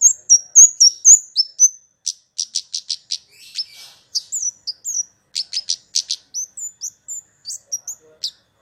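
Kemade small songbird calling: a fast run of high, sharp chirps, some with a quick falling hook, mixed with rapid clicking trills of about five to six notes a second, played as a lure call for other small songbirds.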